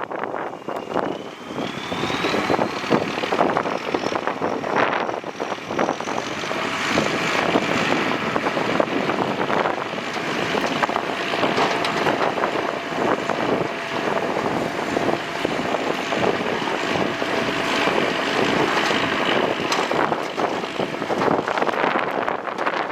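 Shantui DH17C2 bulldozer working: its engine runs steadily with a high whine that rises over the first several seconds, with a steady tone through the middle and frequent short knocks.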